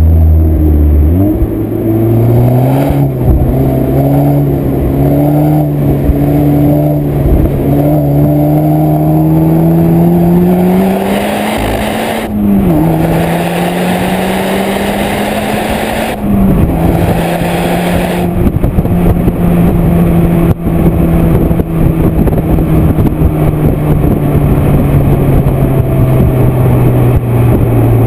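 Seat Leon Cupra R's turbocharged 2.0 TSI four-cylinder, running with a downpipe and high-flow sports catalytic converter, pulling under acceleration. The engine note rises with the revs, drops sharply at two upshifts about halfway through and a few seconds later, then holds a steady pitch as the car cruises.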